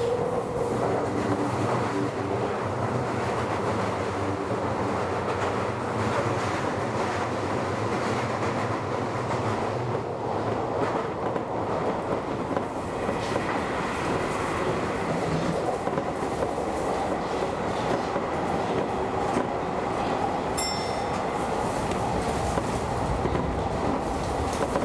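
Keio Inokashira Line electric commuter train running along the track, heard from on board: a steady rumble of wheels on rail with a low motor hum. About halfway through, a faint high whine sets in.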